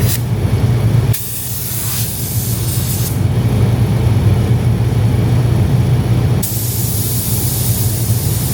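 Spray gun hissing in bursts as the trigger is pulled, once for about two seconds and again from about two-thirds of the way in, over a steady low hum.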